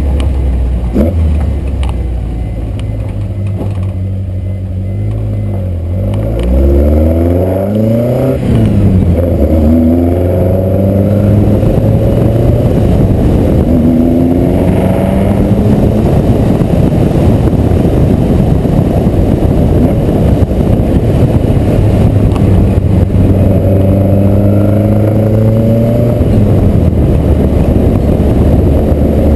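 VW Corrado race car's 2.0 16-valve four-cylinder engine running hard under driving, its revs rising and falling repeatedly.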